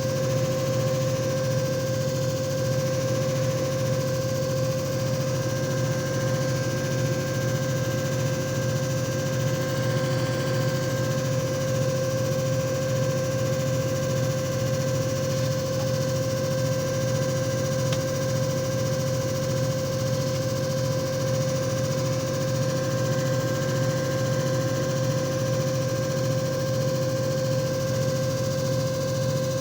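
JFJ Easy Pro disc repair machine running steadily, its motor giving a constant hum with a clear steady whine, while the disc is being resurfaced.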